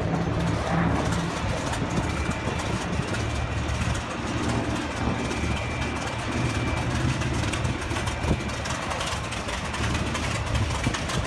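Propeller aircraft engine running with a steady low drone.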